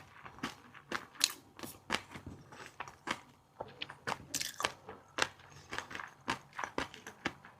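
Close-miked eating of fish roe and crunchy seafood: quick, irregular crisp crunches and pops, several a second.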